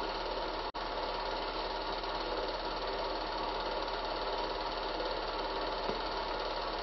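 Cine film projector running with a steady mechanical whir over a constant low mains hum, briefly cutting out for an instant under a second in.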